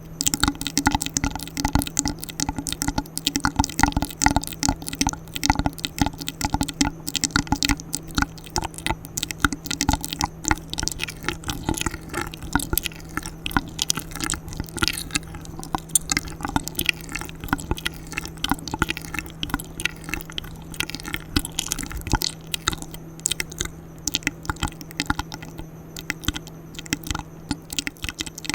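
Close-miked ASMR mouth sounds: a continuous stream of rapid wet clicks and smacks. A steady low hum runs underneath.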